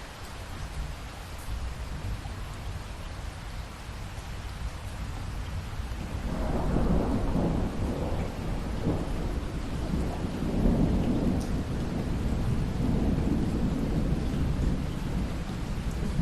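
Steady rain falling, with a long roll of thunder rumbling in about six seconds in and continuing to the end.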